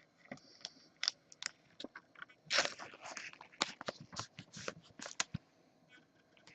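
Trading cards and their plastic packaging being handled: faint, irregular clicks, crinkles and short scrapes, busiest in the middle.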